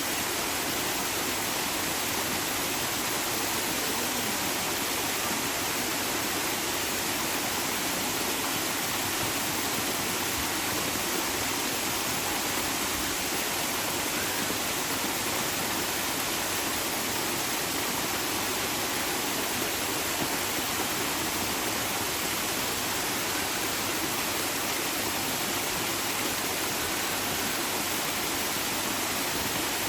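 Steady rush of flowing water, an even hiss that runs without a break.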